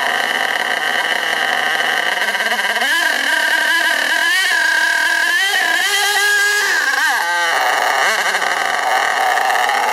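STS D30M nitro engine running at a steady fast idle, then revving up on its own from about three seconds in, its pitch wavering high before dropping suddenly a little after seven seconds. It is running away with itself with no throttle input during run-in.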